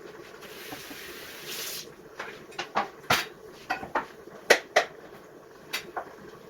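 Pieces of coconut being put into a mixer-grinder jar: a brief hiss about half a second in, then a string of irregular sharp knocks and clunks.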